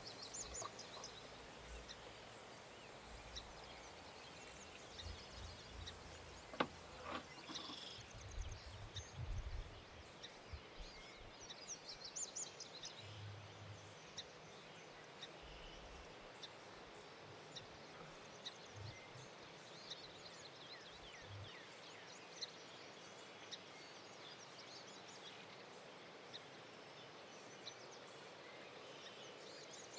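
Wild birds chirping faintly and on and off over a quiet outdoor background. There is a single sharp knock about six and a half seconds in, and a few low thuds in the first third.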